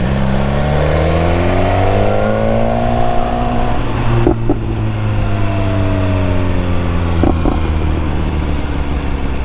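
BMW S1000R inline-four engine running under way. Its note rises for about three seconds, then holds and sinks slowly, with two short clicks about four and seven seconds in.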